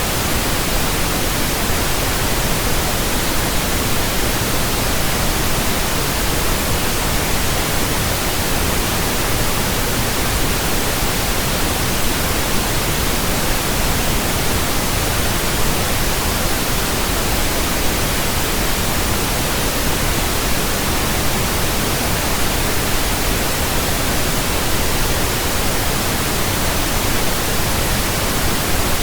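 Steady pink noise from a pink noise generator, an even hiss spread across all pitches and unchanging throughout, played as a burn-in track for speakers and headphones.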